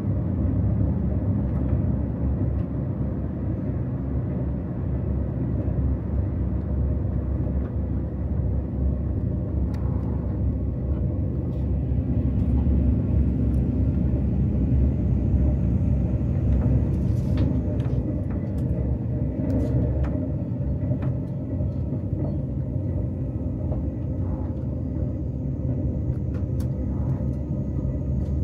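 KTX high-speed train running, heard from inside the passenger cabin: a steady low rumble with a few faint clicks.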